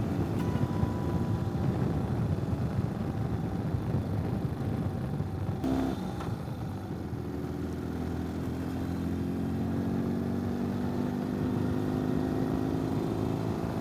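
Ural sidecar motorcycle's boxer-twin engine running under way. About halfway through there is a short break in the note, after which the engine pitch climbs gradually as it picks up speed.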